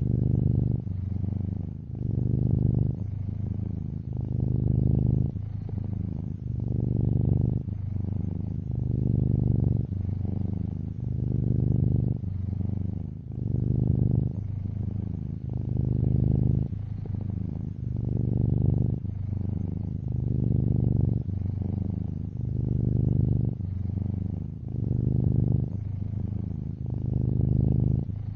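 Domestic cat purring close up, a steady low rumble that swells and eases with each breath about every two seconds.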